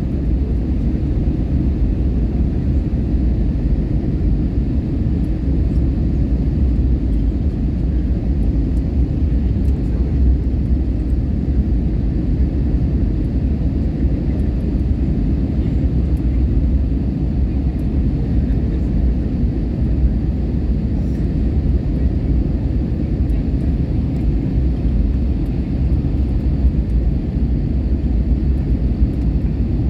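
Steady low rumble of a passenger jet airliner, even in level throughout.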